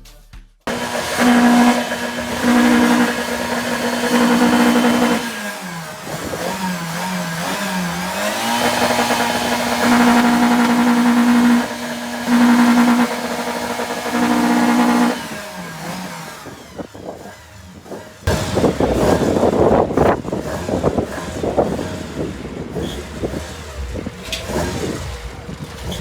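A car engine revved hard and held at high revs in several long pulls, dipping and wavering briefly in the middle. In the last part it turns to a rougher, crackling engine and exhaust sound.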